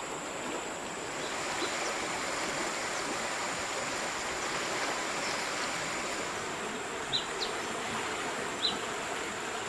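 River water flowing steadily, with a thin steady high tone above it and a few brief high ticks near the end.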